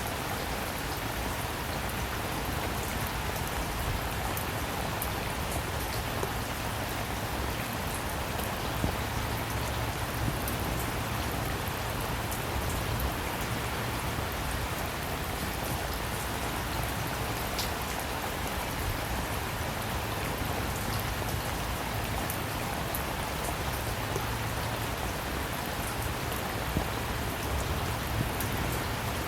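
Steady rainfall, an even hiss with many small drop ticks spattering on a surface.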